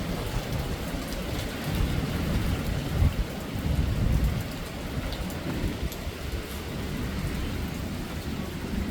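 Hurricane wind and heavy rain: a steady rain hiss under a gusty low rumble that swells and eases, with the strongest gusts about three and four seconds in.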